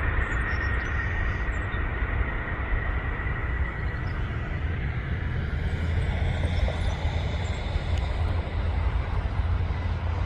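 Jet aircraft engine noise: a deep steady rumble with a high whine that slowly falls and fades over the first few seconds, then a fainter whine rising in around the middle.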